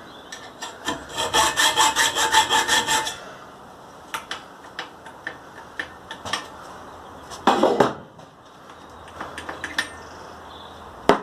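Hacksaw cutting a slot into a metal pipe with quick, even strokes, about four a second, which stop about three seconds in. Then scattered light taps and scrapes, a short louder scrape past the middle, and a sharp knock near the end.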